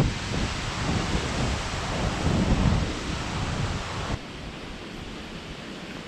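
Strong wind buffeting the microphone, a gusty low rumble under a steady rush of noise, which drops off sharply about four seconds in.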